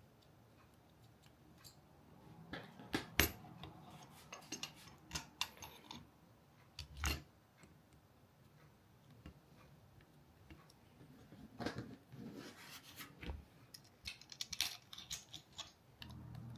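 Scattered clicks, taps and light clatter from camera rig parts being handled and fitted together, in short clusters.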